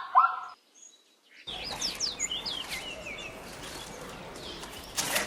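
The last of a zebra's repeated barking call, cut off about half a second in. After a short silence comes outdoor ambience with small birds chirping, and a few sharp clicks near the end.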